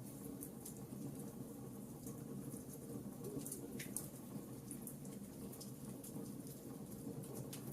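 Wood fire crackling in a fireplace: a steady low rustle of burning with frequent small, sharp pops, and one louder snap about four seconds in.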